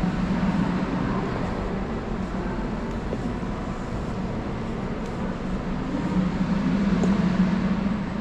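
Steady low mechanical rumble, with a low hum that swells louder about six seconds in.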